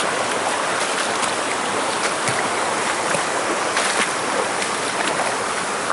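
Stream water rushing steadily over rocks, with a few light clicks.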